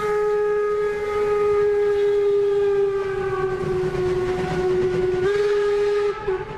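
A steam train whistle sounding one long blast. Its pitch sags slightly, then jumps back up near the end before it cuts off.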